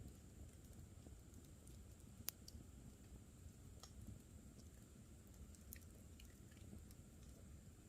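Campfire crackling faintly, with scattered small pops and one sharper snap about two seconds in.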